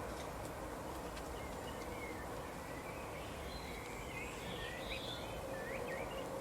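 Small songbirds chirping in short, quick slurred notes, busiest in the second half, over a steady outdoor background hiss.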